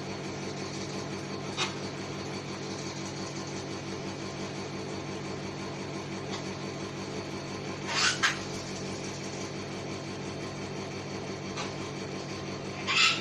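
Cockatoos giving short harsh screeches, a double one about eight seconds in and another at the very end, over a steady low hum.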